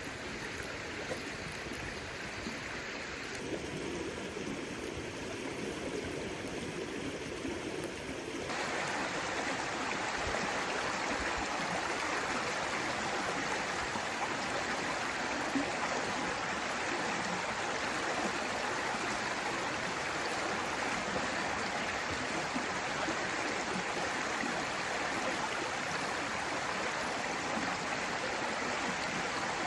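Steady rain falling with an even hiss, getting louder and fuller about eight seconds in.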